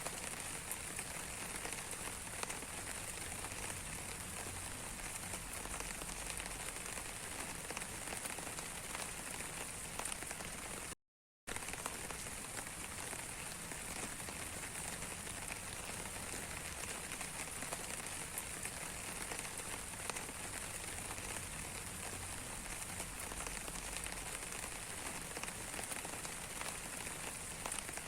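Rain falling steadily on a surface, an even hiss with scattered drop ticks. The sound cuts out completely for about half a second roughly eleven seconds in.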